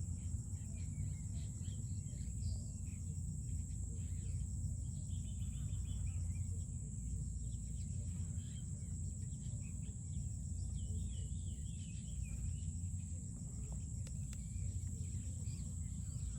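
Outdoor ambience: a steady high-pitched insect drone, with birds chirping now and then over a low rumble.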